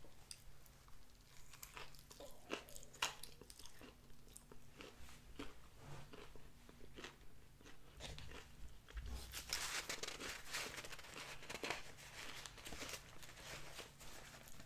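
Close-up crunching bites and chewing of a Popeyes spicy chicken sandwich's crispy buttermilk-battered, hand-breaded fried chicken fillet on a brioche bun, heard as scattered short crisp crunches. From about nine seconds in, a denser, louder paper rustle takes over as a paper napkin is handled.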